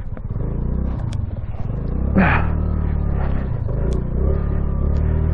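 A 2022 Honda Navi's small air-cooled single-cylinder engine is revved as the rider tries to drive out of deep snow after getting stuck. It swells about half a second in, dips briefly past the middle and picks up again.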